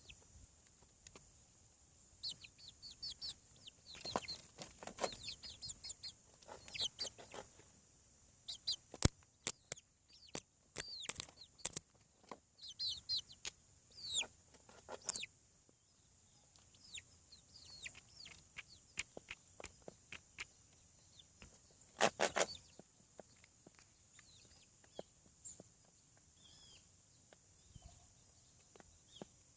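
Seven-week-old chicks peeping and clucking in short, high, downward-sliding calls, with scattered scratching clicks and a louder burst about three-quarters of the way through.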